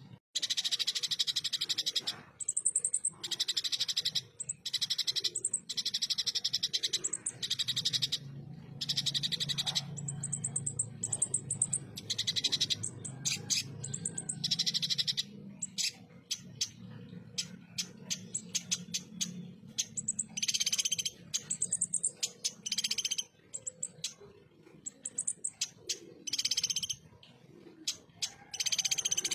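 Kolibri ninja (konin) sunbird singing in rapid-fire 'tembakan' bursts: rough, high chattering phrases repeated over and over with short gaps between them.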